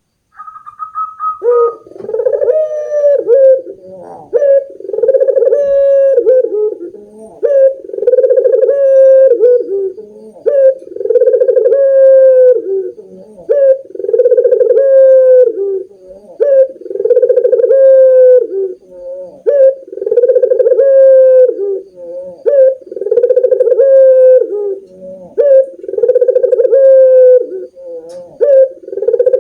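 Doves cooing loudly over and over, one phrase roughly every one and a half to two seconds, each rising and then falling away.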